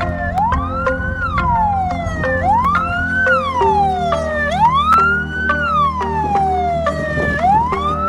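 Fire engine siren wailing in repeating cycles, each rising quickly and falling back more slowly, about one cycle every two seconds, over a low steady rumble.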